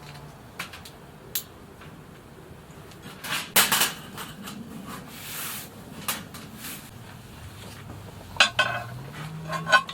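Camp cookware and utensils clinking and clattering in scattered knocks, with a cluster of louder clanks about three and a half seconds in and a short ringing clank near the end, over a low steady hum.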